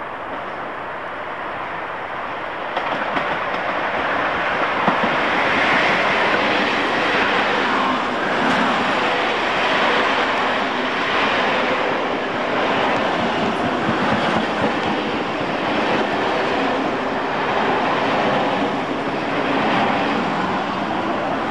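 A Mk1 electric multiple unit running past close by, a steady rumble and hiss of wheels on rails. It gets louder about three seconds in and swells and fades every couple of seconds as the coaches go by.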